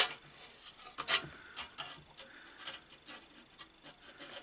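Scattered clicks and light scraping from a hand tool and loose parts being handled, with one sharp click at the start and another about a second in.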